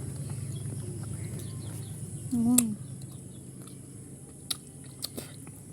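A person eating, with a short "mm"-like voiced sound about two and a half seconds in and a few sharp clicks near the end, over a steady low hum.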